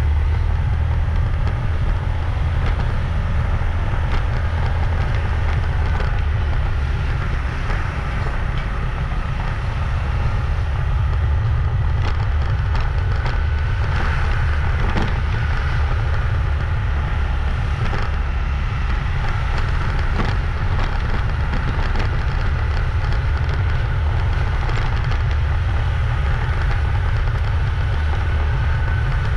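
Wind rumbling on the microphone over a motorbike's engine running steadily while riding, with a few brief knocks around the middle.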